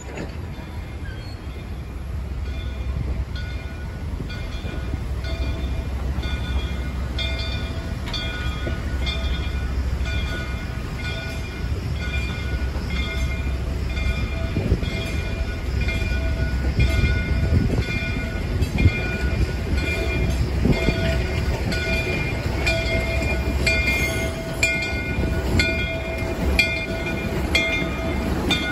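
Railroad cars (cabooses and a passenger coach) rolling slowly past behind a pushing steam locomotive. The steel wheels give a steady low rumble with repeated clicks over the rail joints, and thin high squeals ring above it.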